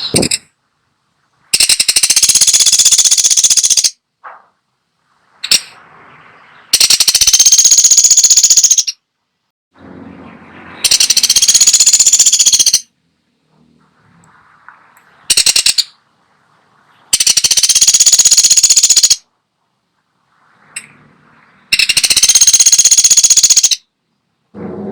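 Woodpecker (pelatuk sampit) giving long, very rapid high-pitched trills of about two seconds each, five times at roughly five-second intervals, with a couple of short single notes in between.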